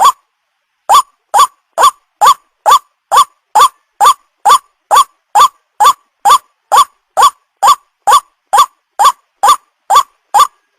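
White-breasted waterhen (ruak-ruak) lure call played as a loop: a short, sharply rising call repeated steadily about twice a second. It starts after a pause of about a second at the start.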